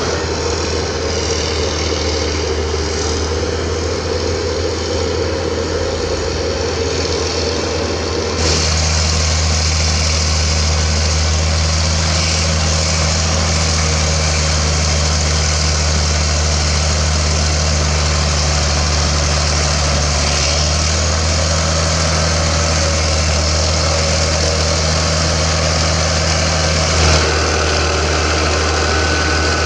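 Cat D6G bulldozer's 10.5-litre Cat 3306T turbo diesel running steadily with a deep, even drone. About eight seconds in the sound steps up abruptly, louder and fuller, and holds there.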